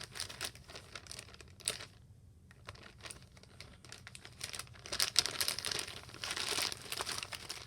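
Rustling with light clicks and taps, sparse at first and busier in the second half, as markers are handled and sorted through by hand to pick a colour.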